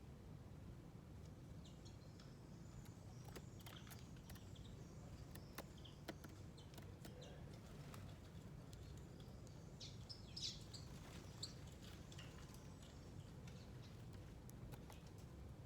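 Faint, scattered short chirps of small birds, a few together about ten seconds in, with sparse light clicks over a low steady hum.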